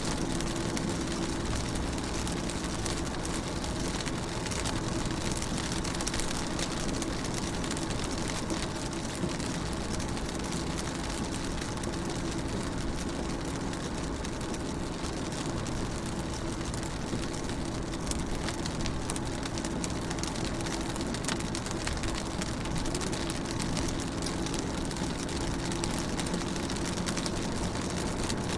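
Rain pattering steadily on a car's windows and body, heard from inside, with individual drops ticking over a steady low hum.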